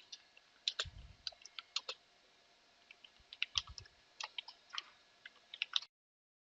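Computer keyboard typing: irregular key clicks, with two heavier keystrokes, about a second in and about three and a half seconds in, then it stops short near the end.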